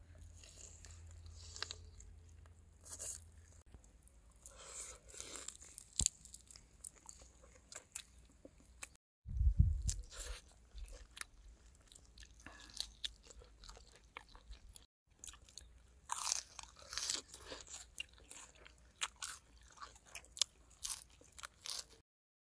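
Close-up eating sounds: a person biting and chewing crunchy food, with many short crisp crackles. A loud low thump sounds about nine and a half seconds in.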